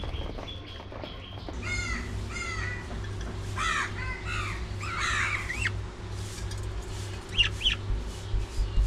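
Budgerigars in an aviary calling: a run of short, arching chirps and harsh calls repeated in quick succession, then a couple of sharp high calls near the end. A steady low hum sits underneath from about a second and a half in.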